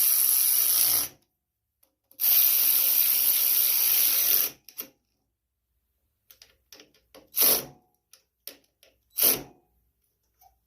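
Power drill running in two steady bursts of about one and two seconds, driving two nuts tight, followed by several light clicks and knocks of the tool being handled.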